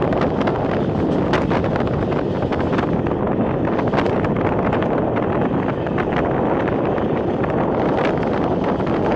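Passenger train running at speed: a steady rumble of wheels on the track with scattered sharp clicks, and wind buffeting the microphone.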